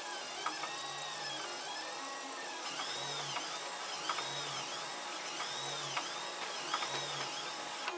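3D printer stepper motors whining as the print head moves back and forth, the pitch rising and falling in repeated sweeps that quicken to about two a second in the second half, with a few light clicks.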